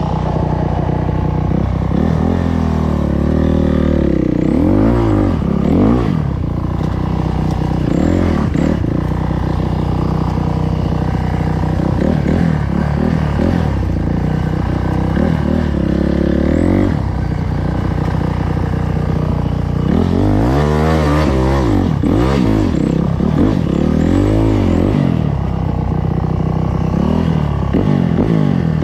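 Enduro dirt bike engines revving up and down, the pitch rising and falling every second or two, with overlapping revs from more than one bike about two-thirds of the way through.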